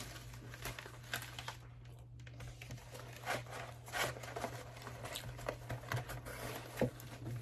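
Close-up chewing of an iced peppermint dessert: irregular small clicks and crackles from the mouth, over a low steady hum.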